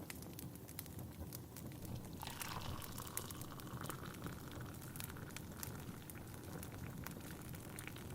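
Wood fire crackling steadily with sharp pops, and from about two seconds in, tea being poured into a cup for about three seconds, its pitch rising as the cup fills.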